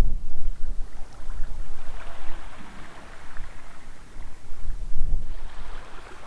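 Wind buffeting the microphone in irregular gusts, loudest at the start and again about five seconds in, over a steady outdoor hiss.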